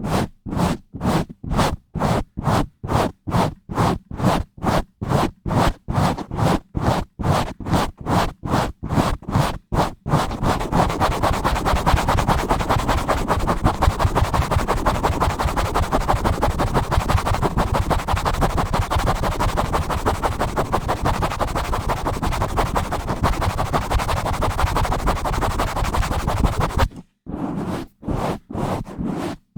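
Close-up scratching directly on a bare microphone: about three separate strokes a second for the first ten seconds, then fast continuous scratching and rubbing. It stops for a moment near the end, and then separate strokes resume.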